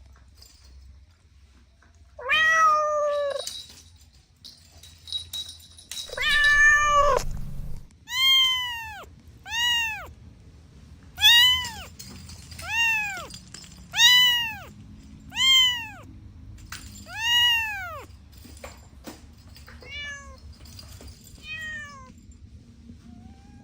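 A cat meowing repeatedly. Two longer meows come in the first seven seconds, then a run of about eight short meows roughly one and a half seconds apart, each rising and falling in pitch, and two fainter ones near the end.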